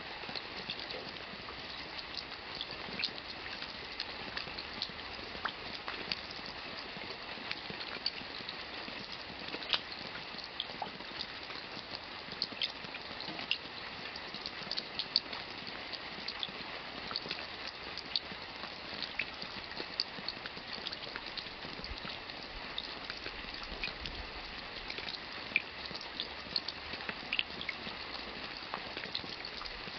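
Rain falling: a steady hiss with many separate drops splattering and ticking close by.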